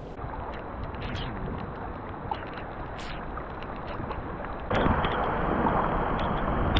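Steady rush of rain and wind, with scattered light taps. About two-thirds of the way through it jumps abruptly louder.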